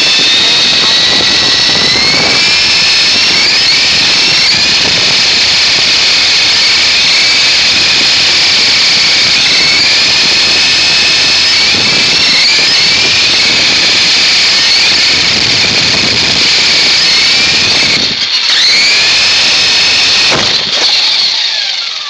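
RC helicopter's motor and rotor whining loudly right at the microphone, spooling up again and again in rising glides. It cuts out briefly twice near the end, then begins to wind down.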